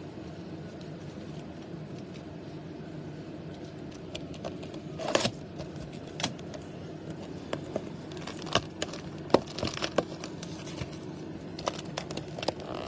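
Scattered clicks, taps and rustles of a sealed trading-card box being handled and opened, with a louder scrape about five seconds in, over a steady low hum.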